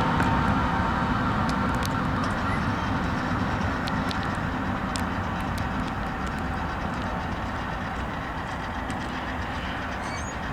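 Norfolk Southern freight train rolling past: a steady rumble of steel wheels on the rails with scattered sharp clicks, slowly fading.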